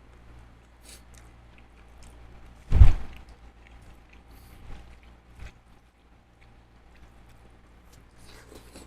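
A person eating seafood: quiet chewing and small scattered clicks, with one loud thump about three seconds in.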